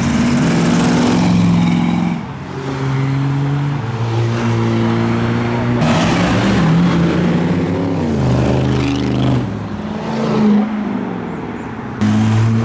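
Car engines accelerating loudly past one after another. The pitch steps and glides as they rev, with another loud car coming in near the end.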